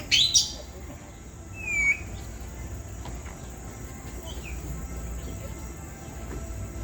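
African grey parrots calling: a sharp screech right at the start, a falling whistle just before two seconds in, and a fainter call later, over a steady low hum.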